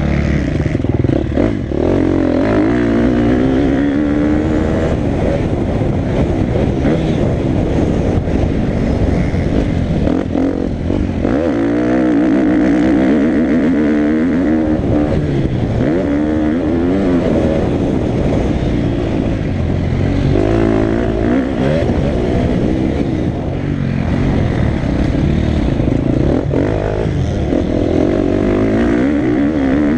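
Motocross dirt bike engine revving hard and falling back over and over as the bike is ridden round the track, the pitch rising and dropping every second or two.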